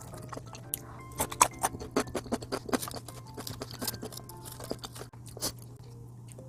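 Close-up crunchy chewing of crispy seasoned fried chicken, a quick run of sharp crackles mostly in the first half, then a few scattered ones. Light background music plays underneath.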